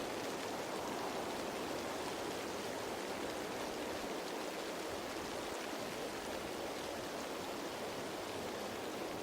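Steady rain falling on leaves: an even, unbroken hiss of many drops.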